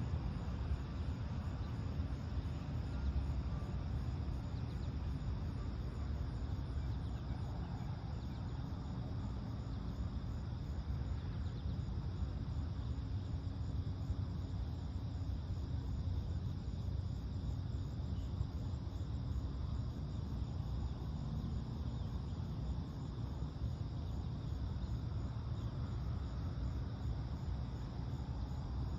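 Steady low rumble, with a continuous chorus of crickets chirping in an even, fast pulse high above it.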